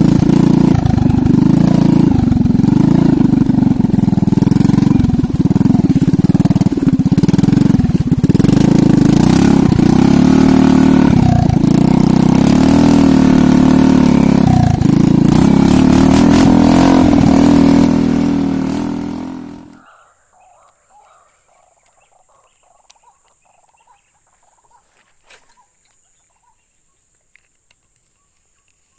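Motorcycle engine running under way, its pitch rising and falling with the throttle, fading out a little after two-thirds through. A faint steady high hum remains after it.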